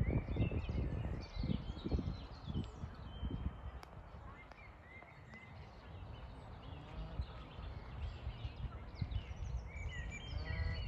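Small birds chirping and twittering over a low rumble, with a short run of rapid repeated notes near the end.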